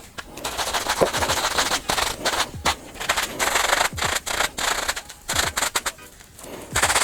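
Scrubbing a sneaker's upper with soapy water: fast rasping, crackling strokes in bursts, with a short lull near the end.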